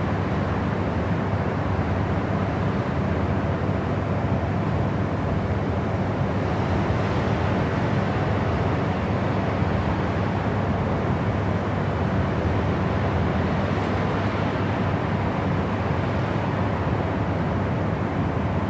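Steady white noise, an even hiss weighted toward the low end, with a deep rumble under it and no change in level.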